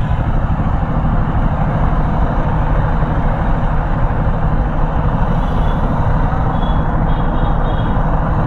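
Kawasaki Z650 motorcycle riding at a steady pace in traffic: a steady low engine hum under loud wind and road noise.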